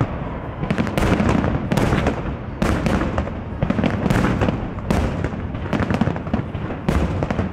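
Aerial firework shells bursting in quick succession, a rapid run of bangs about two a second, each trailing off into an echoing rumble.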